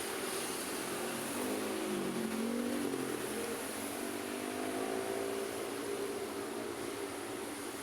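Road traffic with one passing motor vehicle's engine: its pitch drops about two seconds in as it slows for the bend, then climbs as it accelerates away, over a steady hiss of traffic.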